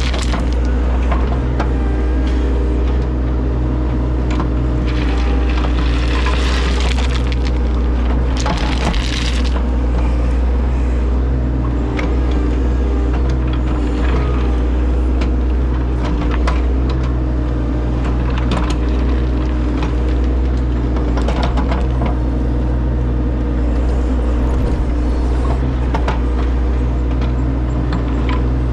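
Heavy construction machine's diesel engine running steadily at a constant pitch, with scattered cracks and scraping of stone being moved.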